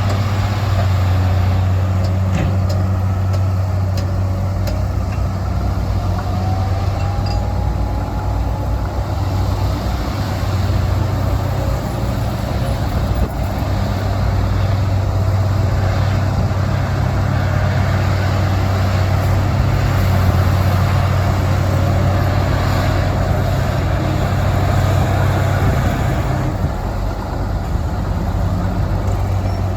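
Heavy diesel engines of dump trucks and a crawler bulldozer running steadily, a deep hum throughout, with a fainter whine that slowly rises and falls in pitch.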